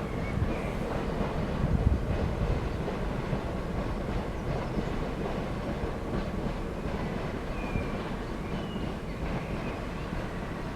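Class 465 Networker electric multiple unit running past on the track, a steady rumble of wheels and running gear.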